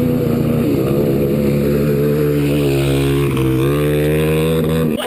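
Dirt bike engine running at a steady speed. Its pitch steps up about three and a half seconds in, and it stops abruptly near the end.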